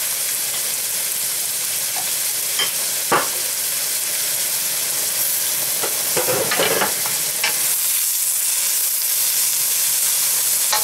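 Sliced onions sizzling steadily in hot grapeseed oil in a wok, with a few light clicks and knocks along the way. Near the end a bamboo spatula starts stirring them.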